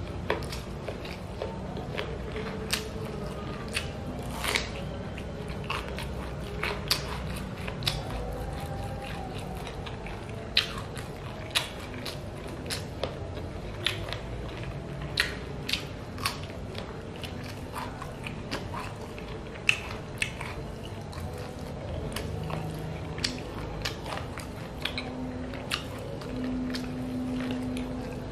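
Close-miked chewing and mouth smacking while eating chili-coated chicken feet by hand, with frequent sharp clicks and wet snaps throughout.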